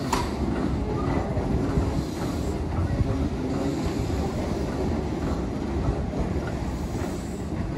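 Keihan electric commuter train running past, a steady rumble of its wheels on the rails.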